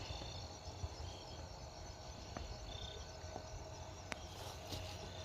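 Faint outdoor insect chorus: crickets trilling steadily at a high pitch, some in short repeated phrases, over a low rumble, with a few faint clicks.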